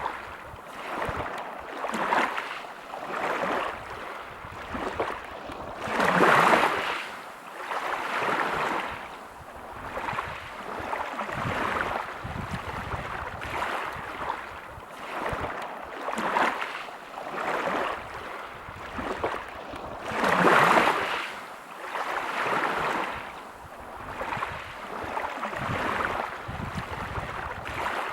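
Sea waves breaking on a pebble beach, surging in and drawing back every couple of seconds, with two bigger waves about six seconds in and again about twenty seconds in.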